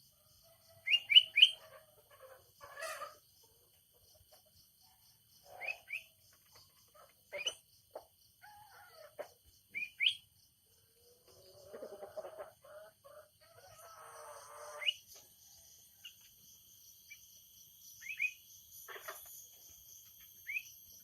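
Songbird chirping: short, sharp upward-sweeping calls, some single and some in quick groups of two or three, every few seconds.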